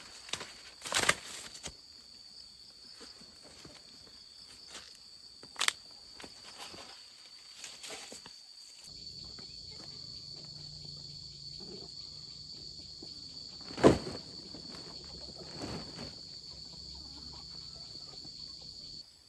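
Insects chirring steadily at one high pitch, with a few sharp knocks and rustles over it; the loudest knock comes about two-thirds of the way through.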